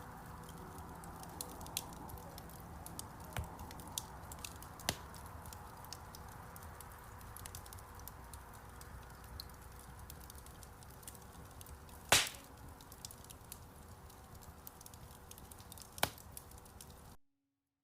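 Wood fire burning in a fireplace: a steady soft hiss with scattered sharp crackles and pops, the loudest about twelve seconds in. The sound cuts off suddenly near the end.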